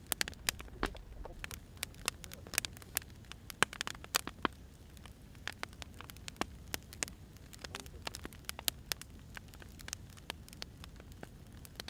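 Wood fire crackling, with irregular sharp pops several times a second over a low steady hiss.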